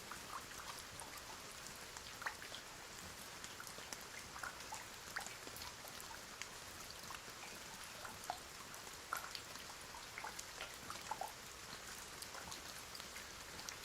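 Rain falling: a soft, even hiss with many scattered drops ticking on a surface.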